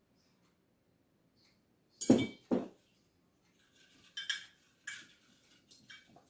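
Dishes and cutlery clinking on a table: two sharp knocks about two seconds in, then a few lighter clinks.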